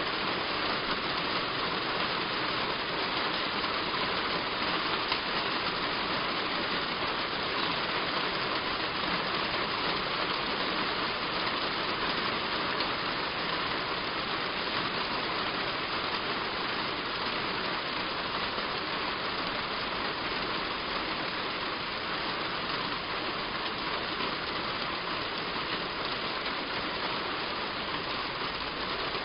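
Heavy rain falling steadily on a roof, an even hiss with no change in strength.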